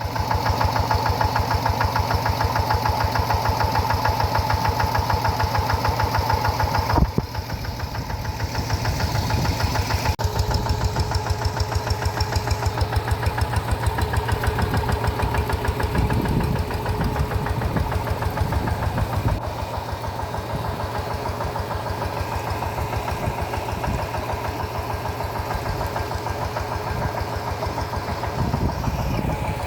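Rice-field tractor engine running with a fast, even chugging. About seven seconds in there is a brief change, after which the engine note is slightly quieter.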